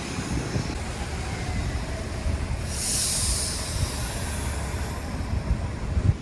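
Train running on its rails, a steady low rumble, with a short high hiss about three seconds in.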